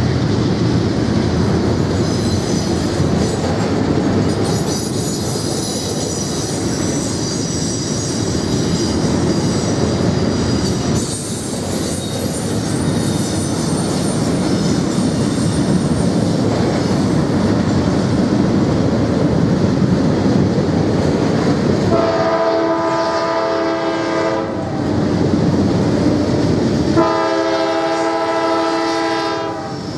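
Long double-stack container train rolling past with steady wheel-and-rail noise and a high wheel squeal through the first third. Near the end the oncoming CSX freight locomotive sounds its multi-note air horn as two long blasts, about three seconds apart.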